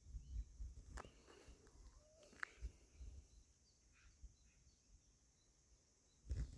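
Faint rural outdoor ambience with a few short, distant bird chirps and a click about a second in, and low bumps on the microphone near the start and end.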